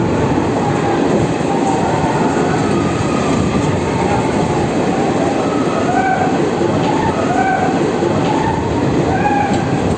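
Train running through a rail tunnel: a steady, loud rumble of wheels on rails, with short wavering wheel squeals every second or so from about four seconds in.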